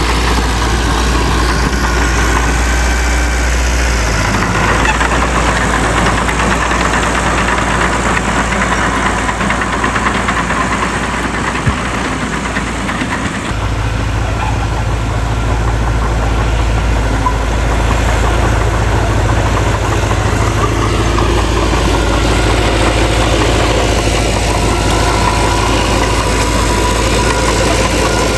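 Heavy diesel earthmoving machinery, a bulldozer and dump trucks, running steadily with a low, dense engine rumble. The sound changes abruptly about halfway through.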